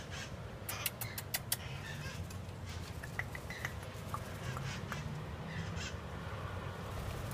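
Wild conures giving short squawks and chirps at close range while feeding. A quick run of sharp clicks comes about a second in.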